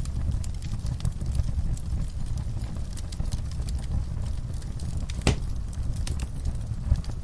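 Log fire crackling in a fireplace: a steady low rumble of flames with scattered small crackles, and one louder pop about five seconds in.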